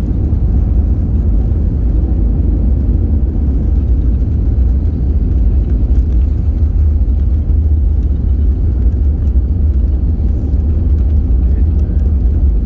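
Steady low cabin noise inside an Airbus A320 in flight: engine and airflow noise heavy in the bass, with no distinct events.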